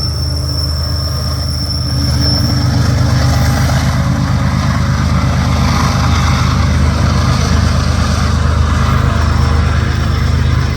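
Diesel locomotive running with a steady low drone as the rear distributed-power unit of a loaded coal train passes, growing louder about two seconds in. A high wheel squeal fades out early on.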